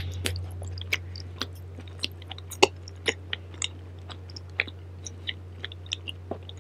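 Close-miked chewing of a mouthful of food, with irregular sharp crunching and smacking clicks, a few per second, over a steady low hum.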